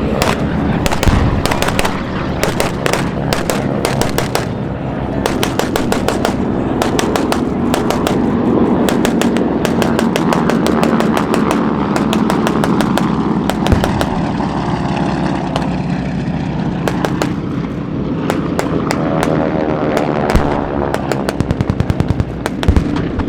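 Warbird propeller engines drone overhead, their pitch sliding as the aircraft pass, under dense strings of simulated gunfire from the staged attack's strafing effects. Near the end comes an even burst of about seven shots a second.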